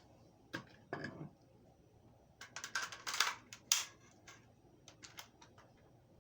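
Rifle being handled and tapped: a string of sharp clicks and knocks from its fittings and attachments. The busiest stretch runs from about two and a half to four seconds in, with lighter scattered clicks after it.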